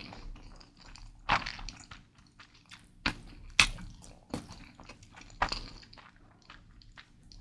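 Close-miked chewing of Mi Goreng instant fried noodles, with irregular wet mouth clicks and smacks about once a second.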